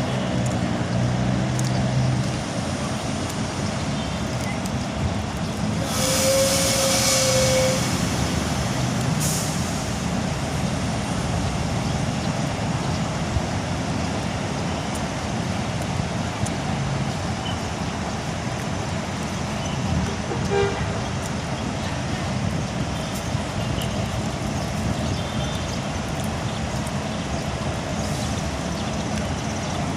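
Large diesel bus engines running steadily. About six seconds in, an air brake releases with a loud hiss lasting about two seconds, and a shorter hiss follows about three seconds later.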